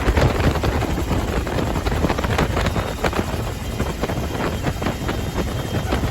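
UH-1H Huey helicopter in flight, heard from aboard: the steady noise of its Lycoming T53 turboshaft engine and two-blade main rotor, with wind buffeting the microphone in irregular gusts.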